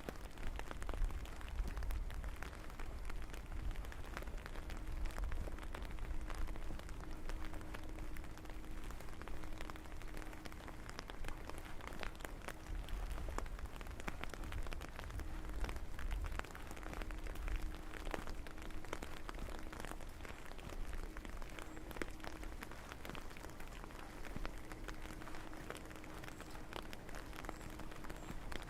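Steady rain falling, with many separate drops ticking close by over an even hiss, a low rumble underneath and a faint hum that comes and goes.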